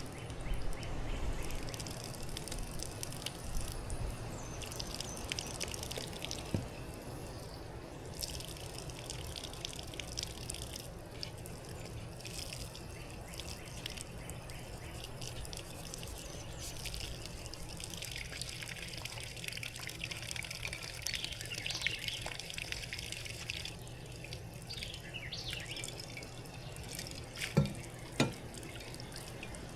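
Water trickling and dripping with small clicks and splashes, and two sharper knocks near the end.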